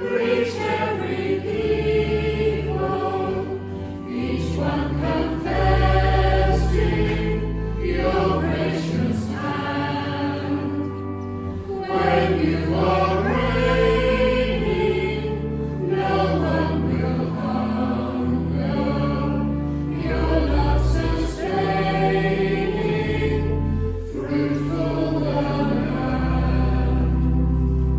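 A hymn sung by a church congregation and choir to pipe organ accompaniment, with deep sustained bass notes under the voices; it closes on a long held final chord.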